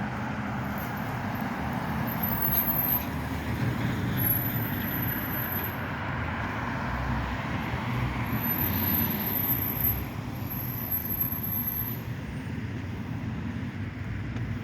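Road traffic going by: a steady wash of car noise with a low rumble.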